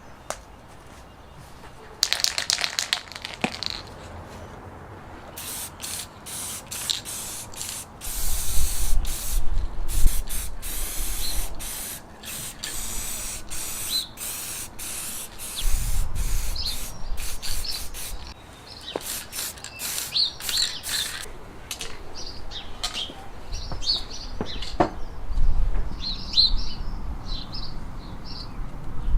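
Aerosol spray can hissing, first in a run of short bursts and then in longer passes, with more short squirts after. Birds chirp in the background in the later part.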